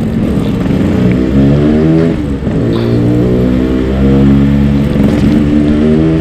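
Yamaha RX King two-stroke single-cylinder motorcycle engine accelerating under way: the pitch climbs, drops at a gear change about two seconds in, then climbs again and holds, with rushing wind noise underneath.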